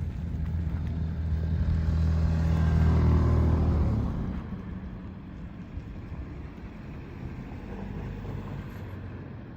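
A motor vehicle passes close by with a low engine hum, growing louder to a peak about three seconds in and dropping away about a second later. A steady low rumble of traffic follows.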